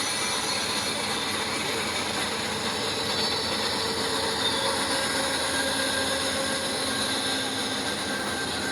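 Steam excursion train hauled by Milwaukee Road 261 passing close by, a steady, even rushing rumble of the train rolling on the rails.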